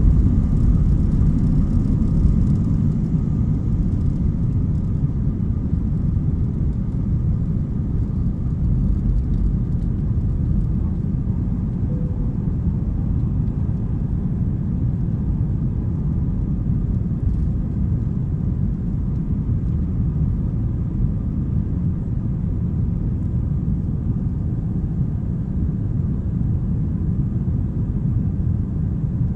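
Airbus A321-200 jet engines and airflow during takeoff: a steady low rumble, with a faint higher engine tone that fades out in the first few seconds.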